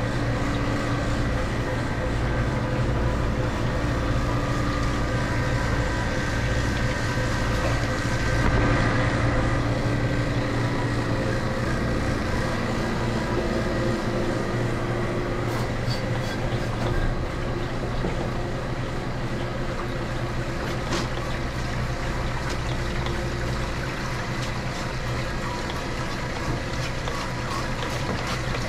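Refrigeration vacuum pump running steadily with a low hum as it pulls the ice machine's sealed system down into vacuum.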